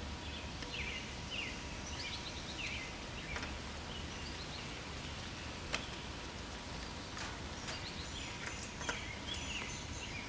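Birds chirping and trilling over steady outdoor background noise, with two sharp clicks, one about halfway through and one near the end.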